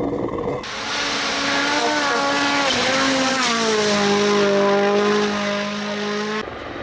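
Rally car engine running at high revs over tyre and road noise; its note holds steady, then drops to a lower pitch about halfway through and holds there. The sound starts and stops abruptly.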